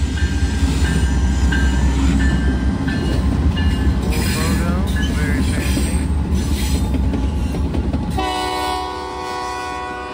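Norfolk Southern freight locomotives, a GE Dash 9 leading, run close by with a heavy diesel rumble and rail clatter. About eight seconds in, the locomotive horn sounds one blast of about two seconds.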